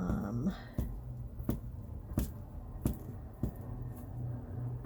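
Crafting paper being handled and glued with a glue stick: a run of five light taps about 0.7 s apart with soft rubbing between them.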